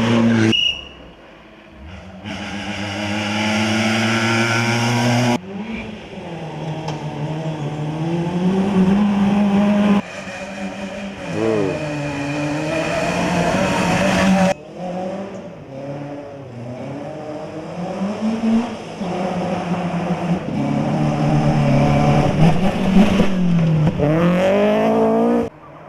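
Volkswagen Polo rally cars' 1600 cc engines revving hard, the pitch climbing and dropping with throttle and gear changes. The sound cuts abruptly several times from one car or pass to the next.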